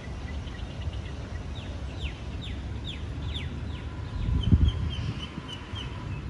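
Birds calling in park trees: a run of about eight quick, falling whistled notes, then a rapid chatter of short higher notes. A brief low thump, like wind or handling on the microphone, about four and a half seconds in is the loudest moment.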